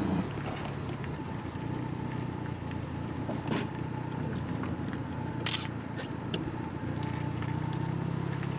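Vehicle engine running with a steady low hum, and a few short sharp clicks over it, the loudest about five and a half seconds in.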